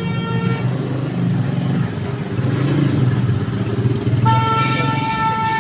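Steady rumble of running vehicle engines with a vehicle horn: a short faint toot at the start, then a long steady horn blast from about four seconds in.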